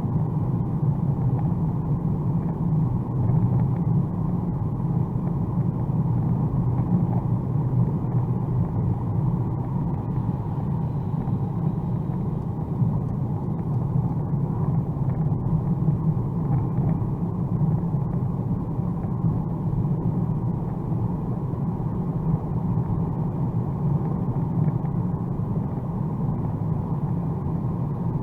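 Steady low rumble of a 2021 Mercedes-AMG A35 4MATIC+ at speed on a rain-soaked motorway: tyre, wind and engine noise blended together, with no changes.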